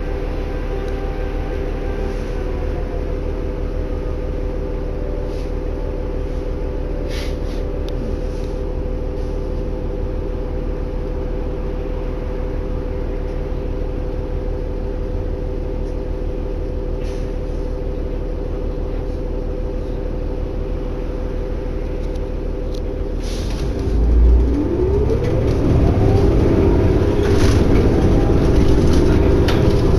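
2011 New Flyer D60LFR articulated diesel bus heard from inside, droning steadily as it rolls along. About 24 seconds in there is a low thump, then the drone gets louder and a whine climbs in pitch as the bus accelerates.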